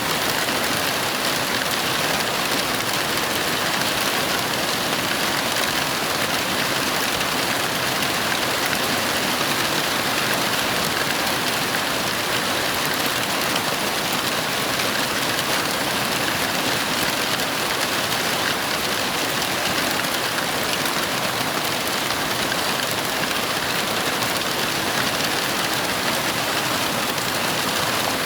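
Heavy rain falling steadily: a dense, even hiss of drops with no thunder in it.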